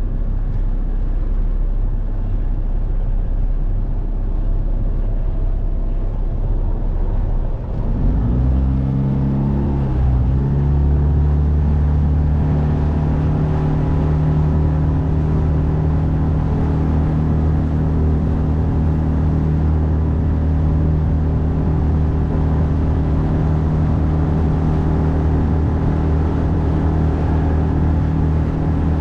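9.8 horsepower outboard motor pushing a small boat, running low at first, then throttled up about eight seconds in: its pitch climbs over two or three seconds and then holds steady at full speed.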